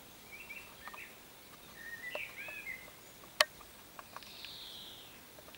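Small songbirds chirping in short, quick phrases, with one sharp click about three and a half seconds in and a few fainter ticks after it.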